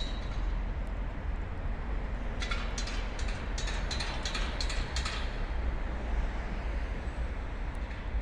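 City street traffic noise: a steady low rumble, with a run of short sharp clicks about two and a half to five seconds in.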